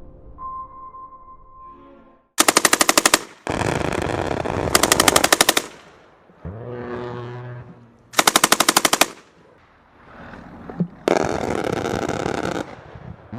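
Close bursts of automatic gunfire, rapid separate shots in quick strings, twice, alternating with longer stretches of dense, continuous heavy firing.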